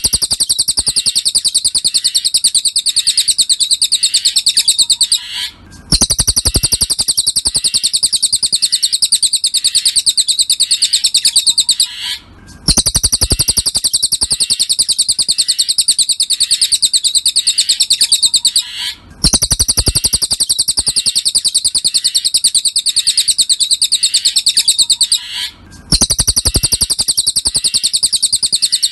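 Cililin bird song: a rapid, high, continuous chirping trill delivered in long phrases of about six seconds, broken by short pauses about four times.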